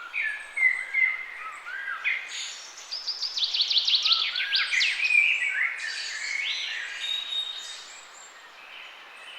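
Several songbirds singing and chirping at once, in short whistled glides and trills, over a steady hiss. A fast run of quick repeated falling notes comes about three to five seconds in.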